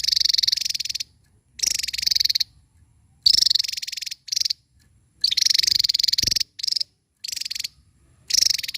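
Javan tesia singing: a series of high, rapid buzzing trills, each under a second or so long, separated by short pauses.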